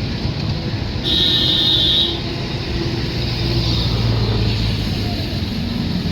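Train running with a steady low rumble; about a second in, a high steady tone sounds for about a second over it.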